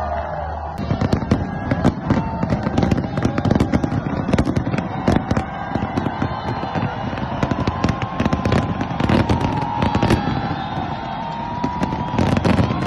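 A fireworks display: many sharp bangs and pops in rapid, irregular succession, with a dense cluster of blasts near the end.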